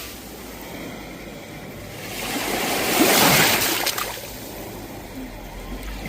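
Sea waves on a shore. One wave swells up about two seconds in, breaks with a loud wash of noise and runs back out, and the next begins to build near the end.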